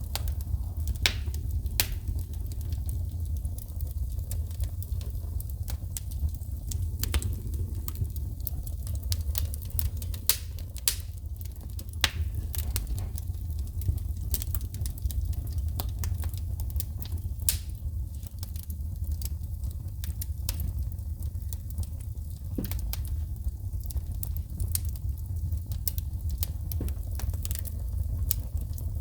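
Wood fire burning in a fireplace, crackling with frequent irregular sharp pops and snaps of sparks over a steady low rumble.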